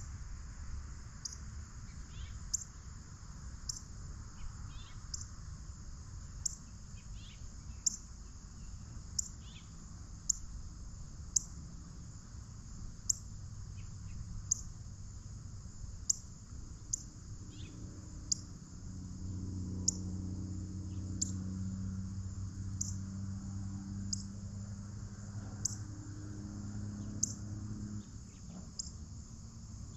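Insects chirping, a cricket-like chirp repeating about once a second over a steady high insect drone. A low droning hum rises in the background about two-thirds in and stops near the end.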